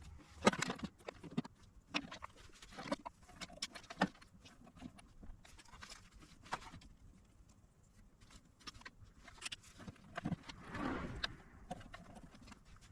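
Irregular light clicks and knocks from small parts and tools being handled, with a brief rustling swell about ten seconds in.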